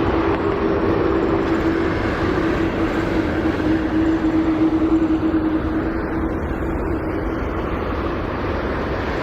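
Jet engine noise from a Boeing 777-300ER's GE90 engines as it lands: a steady noise with a held humming tone that fades out about seven seconds in.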